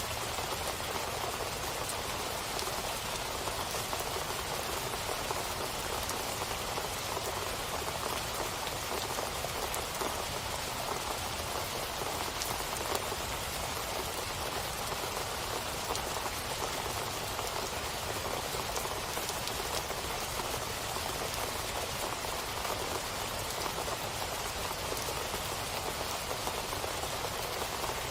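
Steady rain falling on a surface, an even patter of drops with no change in strength.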